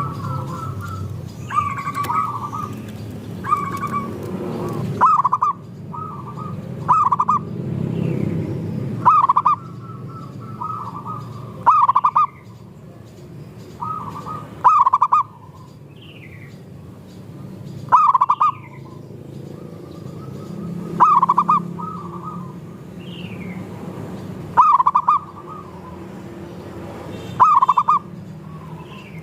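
Zebra doves (perkutut) cooing: a short cooing phrase repeated about every three seconds, with thin falling chirps in between.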